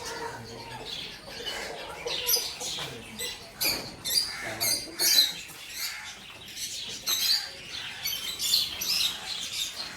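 Small birds chirping: many short, high calls overlapping, coming in quick irregular bursts.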